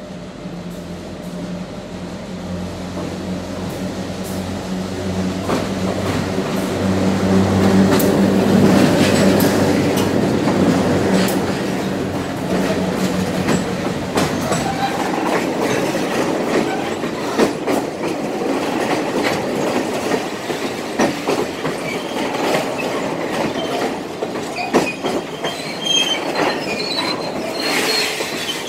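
A diesel locomotive pulling a passenger train approaches and passes close by, its low engine drone building to its loudest about a third of the way in. The open-sided coaches then roll past with repeated clicks of wheels over rail joints and short wheel squeals near the end.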